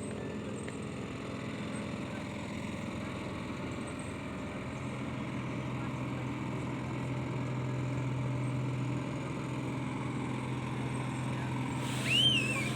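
Engine of a motor launch running steadily, a low hum that gets a little stronger about four and a half seconds in. Near the end comes one brief high whistle-like call that rises and then falls.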